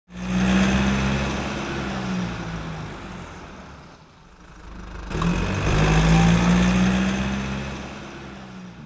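A motor vehicle's engine running in two swells: loud at the start and fading away, then building again from about five seconds in and fading once more.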